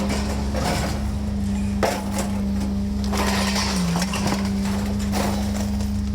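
Pieces of scrap metal clanking as they are thrown, several separate impacts, over a steady low hum.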